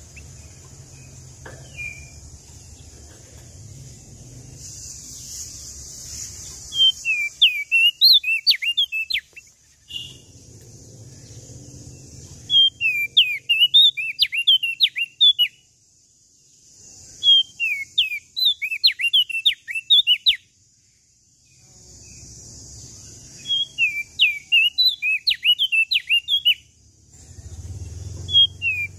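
Prenjak daun Lombok songbird singing. Each song is a quick string of sharp, whistled notes darting up and down, about three seconds long, and it comes four times with short pauses between, the fifth starting near the end. A steady hiss and a low rumble come and go between the songs.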